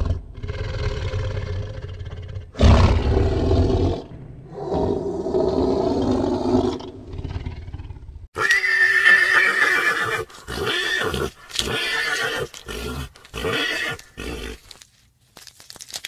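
An animal calling again and again: a few drawn-out cries, then a quick run of shorter cries in the second half.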